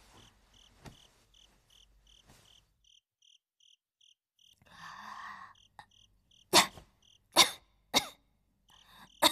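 Crickets chirping in a steady, even rhythm, then about five seconds in a woman's voice starts a short held note and breaks off into four hard coughs.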